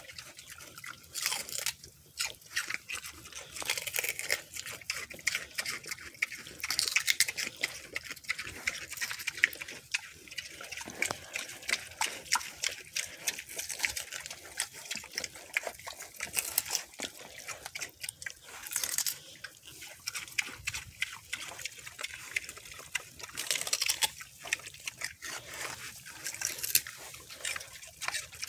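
Mini pigs chewing and crunching celery: a dense, irregular run of wet crunches and smacks.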